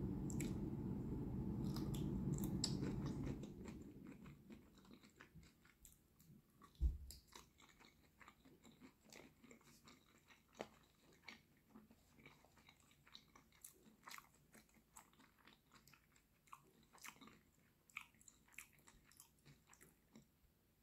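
Mouth sounds of eating cooked shrimp dipped in cocktail sauce: chewing with many small wet clicks and smacks. A low steady rumble covers the first three seconds or so and then fades out. A single dull thump comes about seven seconds in.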